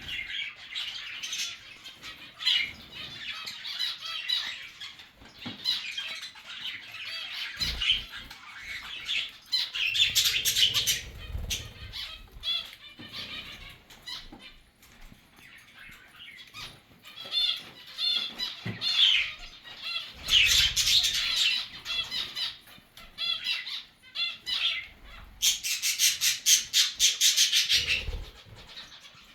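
A mixed flock of zebra finches, budgies and cockatiels chirping and chattering continuously, with several louder bursts of calls and wing flapping.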